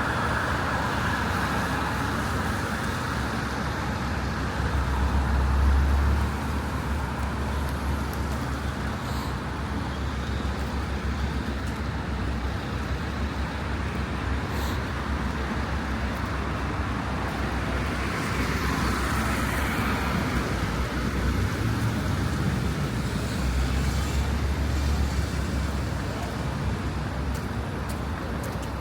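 City street traffic: cars and buses passing, with a steady road hum. An emergency vehicle's siren fades out in the first few seconds, and a low engine rumble swells twice as heavier vehicles go by.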